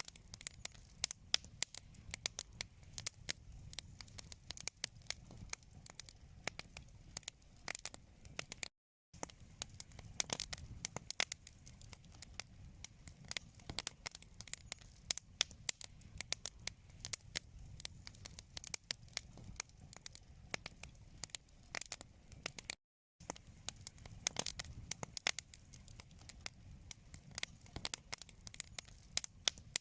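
Wood fire crackling in a fireplace: a dense, irregular run of sharp pops and snaps over a low rumble of flame. The sound cuts out to silence for a moment twice.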